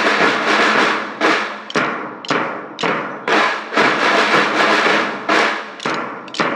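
School band percussion: drums and other percussion struck in a steady beat, about two hits a second, each hit ringing out and fading before the next.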